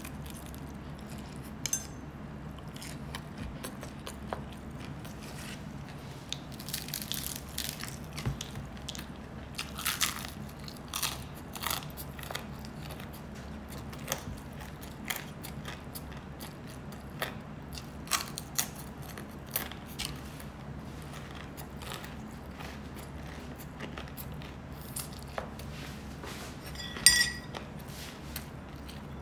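Close-miked eating: scattered bites, crunches and chewing of food, over a steady low hum. Near the end comes a sharp ringing clink, the loudest sound in the stretch.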